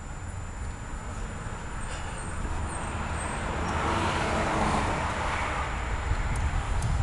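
A car passing by, its tyre and engine noise swelling to its loudest about four to five seconds in and then fading, over a steady low rumble. A few faint clicks near the end.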